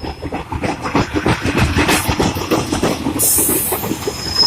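Class 144 Pacer, a four-wheeled diesel railbus, moving slowly at a platform. Its wheels clatter in a quick, irregular run of knocks, a short hiss comes about three seconds in, and a high steady wheel squeal sets in near the end.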